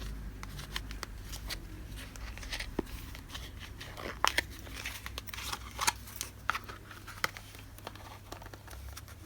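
Paper stationery goods and their wrapping being handled: scattered crisp crinkles and rustles, loudest between about four and six seconds in, over a faint steady low hum.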